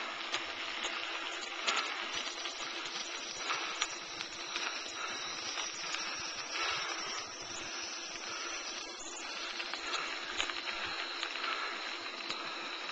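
Steady rushing noise of a bicycle rolling along a trail, tyres and passing air, with scattered small clicks and rattles.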